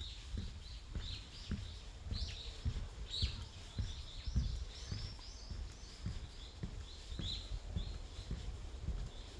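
Footsteps walking on a forest path, soft low thuds about twice a second, with small birds chirping high above; a quick run of bird notes comes between about three and six seconds in.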